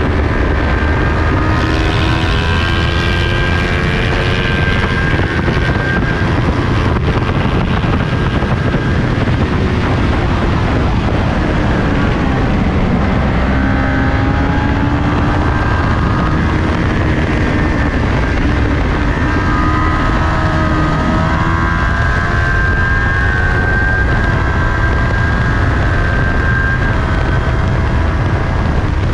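Onboard sound of a Kawasaki Ninja 400's parallel-twin engine at racing speed, its pitch rising and falling with throttle and gear changes, under heavy wind rush on the microphone.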